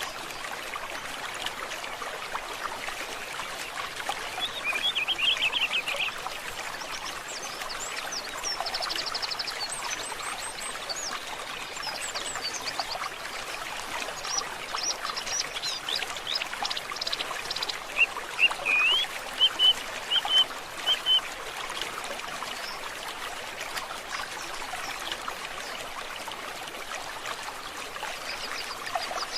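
Stream water trickling and running steadily, with several songbirds singing over it in scattered trills and short phrases; a run of louder, sharper calls comes about two-thirds of the way through.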